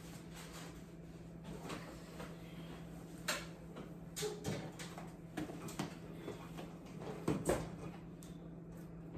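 Scattered knocks and clunks of household items and containers being handled and set down, loudest a little over three seconds in and again about seven and a half seconds in, over a steady low hum.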